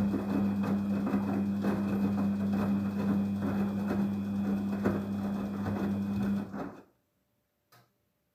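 Daewoo front-loading washing machine running in its hand-wash cycle: a steady low motor hum with water and laundry sloshing, which stops abruptly about seven seconds in, followed by a faint click.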